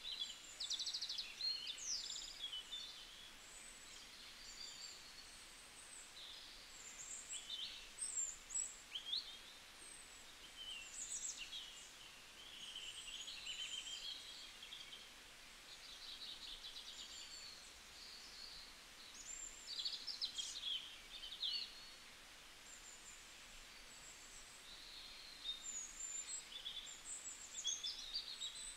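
Birds chirping and singing: many short calls, quick trills and sliding whistles one after another, over a faint steady background hiss.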